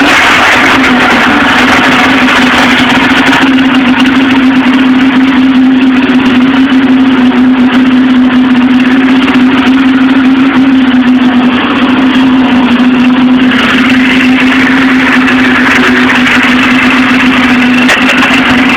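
Polaris XC 600 snowmobile's two-stroke engine idling steadily on half choke, freshly cold-started after sitting 24 hours in the cold. The higher-pitched part of its noise drops away about three and a half seconds in and comes back after about thirteen seconds.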